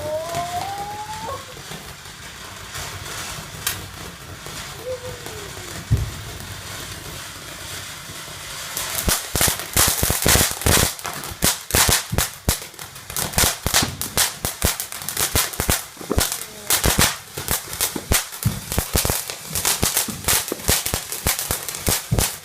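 Consumer fireworks going off: a single bang about six seconds in, then from about nine seconds a dense, rapid run of crackling pops.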